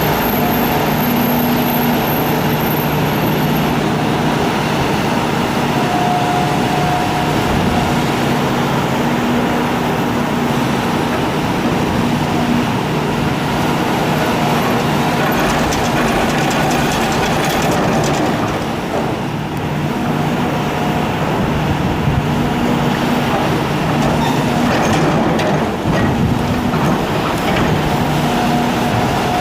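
Hitachi excavator's diesel engine running steadily under load, with a few faint knocks in the middle and later on.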